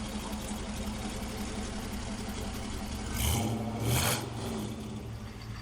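Old pickup truck's engine idling steadily, blipped twice with short revs about three and four seconds in.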